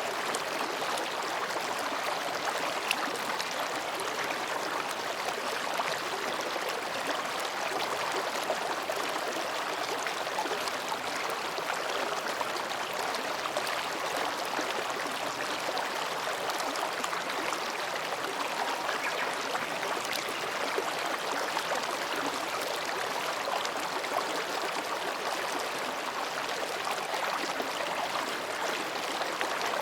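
Mountain stream babbling as it flows between rocks: a steady, even rush of water.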